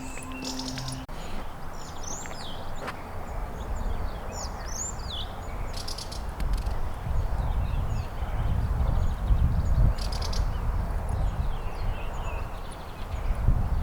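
Wild birds chirping and calling in short, gliding notes, over a low rumble on the microphone that builds from about three seconds in.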